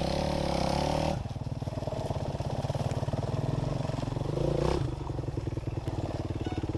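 Dirt bike engine running at raised revs, dropping back to idle about a second in, then a short blip of the throttle near the middle before settling to idle again.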